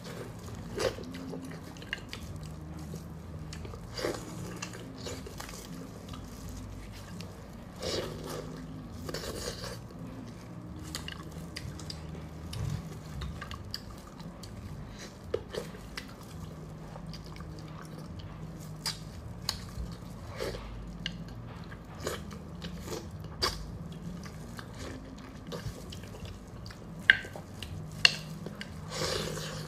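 A person biting and chewing braised chicken on the bone, with many short sharp mouth clicks and smacks.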